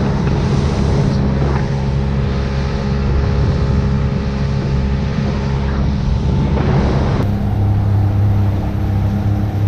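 Boat outboard motor running underway, a steady engine note over wind and water noise, with an abrupt change in the engine note about seven seconds in.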